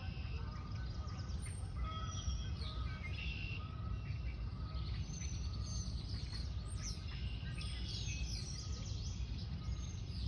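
Several small birds chirping and singing over and over, over a steady low rumble.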